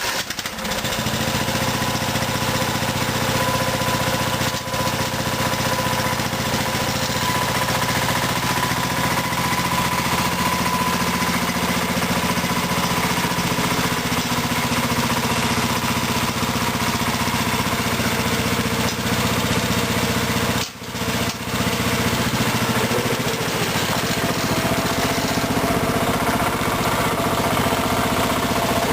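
Craftsman riding mower's engine starting and running steadily, a test run after the repair. The level drops briefly about two-thirds of the way through.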